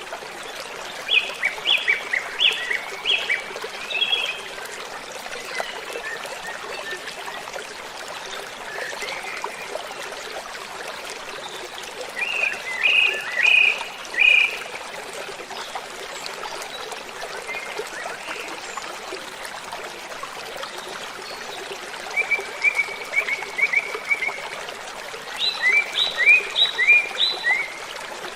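Steady rush of falling water, with a bird singing over it in bouts of quick repeated high notes, each note sweeping downward, about a second in, near the middle and twice near the end.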